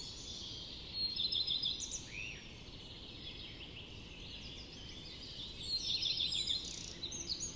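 Forest songbirds singing and chirping over a steady low background hiss. Two louder bursts of rapid, high chirping trills come about a second in and again around six seconds in.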